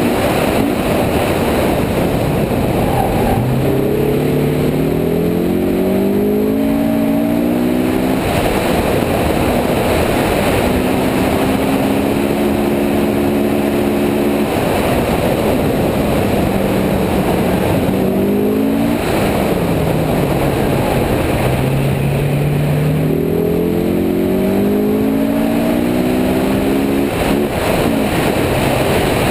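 Car engine driven hard, its pitch climbing in long rising sweeps and dropping back several times as the driver accelerates and lifts, over steady wind and road noise.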